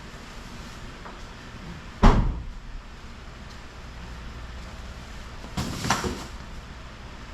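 A single heavy thump about two seconds in, then a short clatter of several knocks around six seconds, over a steady low hum.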